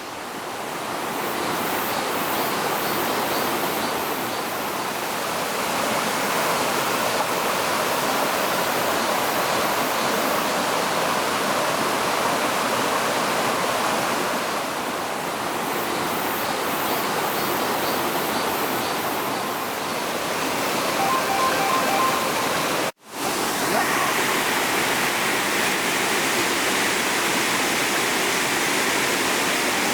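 Waterfall rushing steadily, a dense even roar of falling water. The sound breaks off for an instant about two-thirds of the way through, then resumes.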